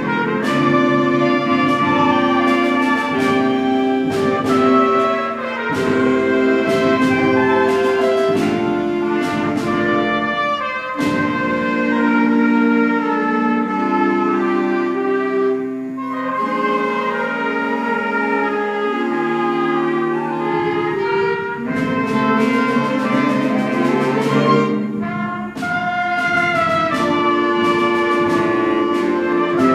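A school wind band playing a piece in held, slowly changing chords. The lowest parts drop out for a stretch in the middle.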